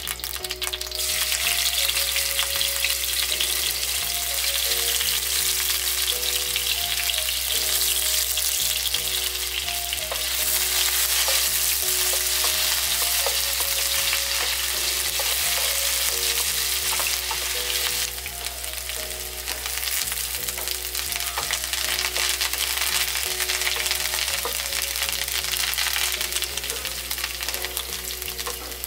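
Chopped ingredients sizzling in hot oil in a nonstick frying pan, stirred with a wooden spatula, with the spatula scraping and tapping against the pan. The sizzle starts loud about a second in and eases a little about two-thirds of the way through.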